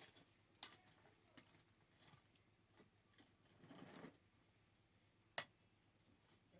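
Near silence broken by a few faint, sharp clicks and a brief rustle just past the middle, with one louder click about five seconds in.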